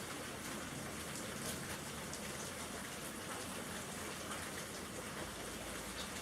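Steady rain falling, with single drops ticking now and then.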